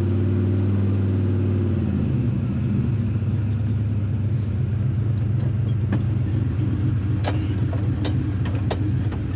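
Chevy C10's turbocharged 388-cubic-inch LS V8 idling, heard from inside the cab, with a steady low engine note that changes character about two seconds in. A few sharp clicks come near the end.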